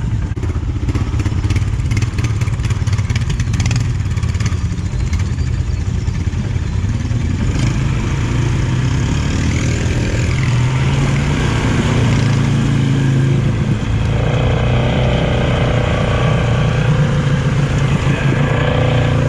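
Polaris 570 ATV's single-cylinder engine running under way, the throttle varying, its note rising and getting stronger about ten seconds in and again a few seconds later. A run of short knocks and clatter comes in the first few seconds.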